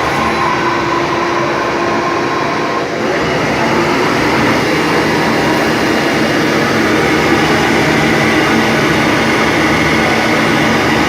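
CNC lathe running: a steady mechanical hum and hiss, with a thin high tone that stops about three seconds in.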